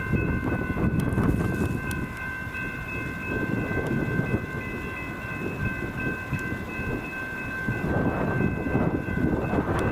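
A train rolling past: a heavy, uneven rumble and rattle of wheels and cars, with a steady high-pitched whine on top, and the rumble easing a little mid-way before building again near the end.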